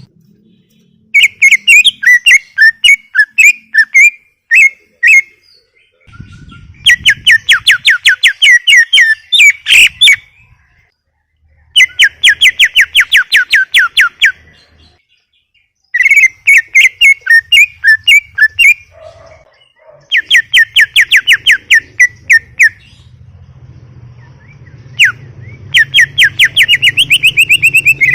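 A cucak ijo (green leafbird) singing in full, nonstop song: six loud phrases of rapid repeated whistled notes, each a few seconds long, with short pauses between.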